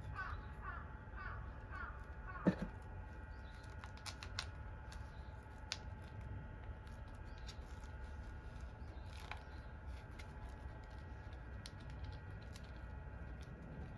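A bird calling, a quick run of about five short chirps in the first two seconds, then a louder falling call about two and a half seconds in. Scattered light clicks follow over a steady low hum.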